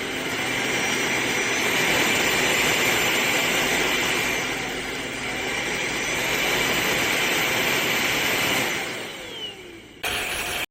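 MBYULO cordless stick vacuum running: a loud, steady rush of suction with a high motor whine that rises in pitch twice, then falls and fades as it winds down about nine seconds in. A short burst of the same loud noise follows near the end.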